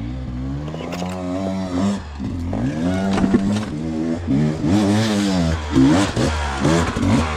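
Dirt bike engine revving, its pitch rising and falling over and over as the throttle is worked.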